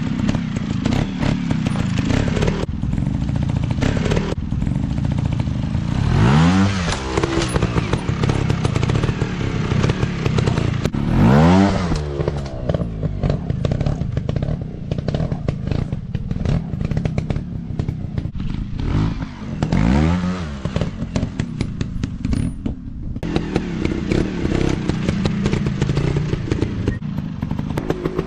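Dirt bike engines running, with three sharp revs that rise quickly in pitch, about six, eleven and twenty seconds in, over steady rattling and knocking.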